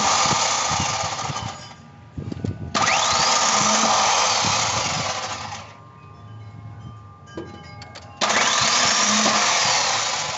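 Starter motor of a 1996 Ford Ranger 2.3 spinning with a whine that rises in pitch each time the key is turned, three tries of two to three seconds each, and the engine does not start. The owner suspects the starter's Bendix drive.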